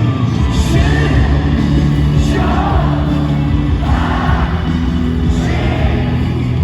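Live pop-rock band playing, with singing and shouts over it.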